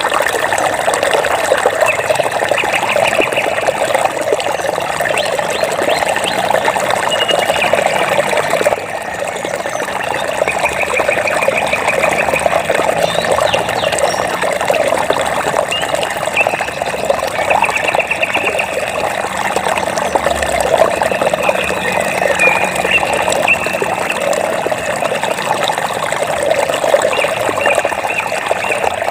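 Flowing water trickling and babbling steadily. A rapid chirping trill, high above the water, repeats every few seconds.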